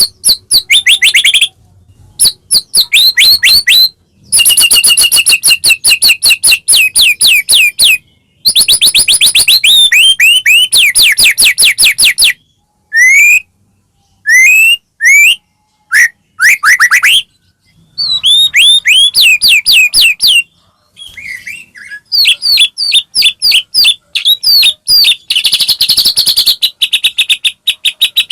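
White-rumped shama (murai batu) singing loud, fast song phrases of rapidly repeated whistled notes that sweep downward, with short pauses between phrases.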